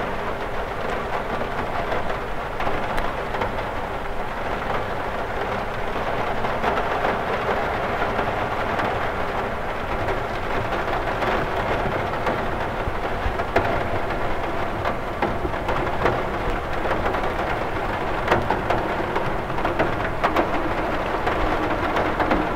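Steady rain falling on a window pane: a continuous hiss of rain with many separate drops ticking against the glass, over a steady low rumble.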